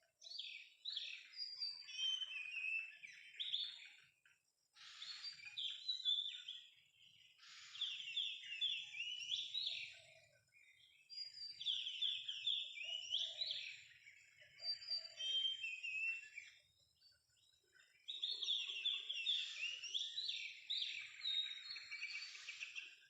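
Oriental magpie-robin song: varied, whistled phrases delivered in several bursts with short pauses between them.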